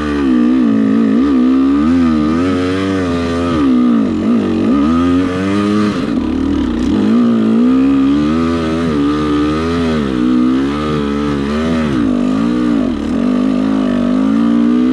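Dirt bike engine revving up and down again and again as the throttle is opened and closed on the trail, its pitch rising and falling every second or two.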